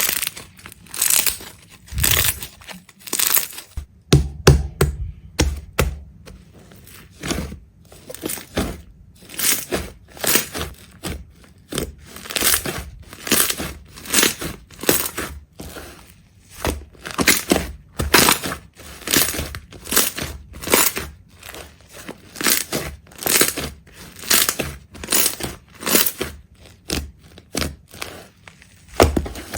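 Repeated crunching and crackling as something is crushed, in short irregular bursts about one or two a second.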